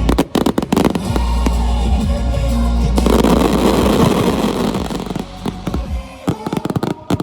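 Aerial fireworks going off in quick succession: rapid bangs and crackling. About three seconds in, a dense wash of crackle builds. The low rumble stops about six seconds in, leaving scattered pops that thin out, with music underneath.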